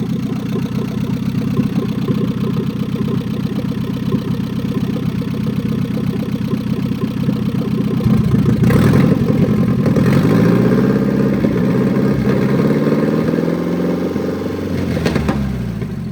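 1989 Nissan 240SX's 2.4-litre four-cylinder engine running unevenly on test. It picks up about halfway, then its pitch wavers and sags, with two sharp clacks. Near the end it starts to die: a stall the owner puts down to the emissions system not being hooked up.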